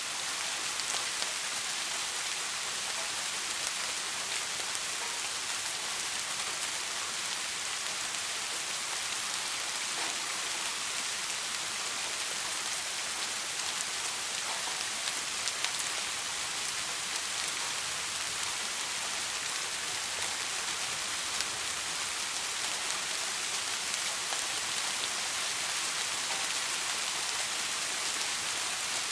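Soft rain falling steadily: a dense, even hiss of drops with a few slightly louder single drops standing out.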